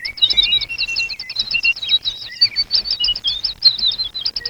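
Several songbirds chirping and singing together in a dense chorus of rapid, high twittering notes and short whistles.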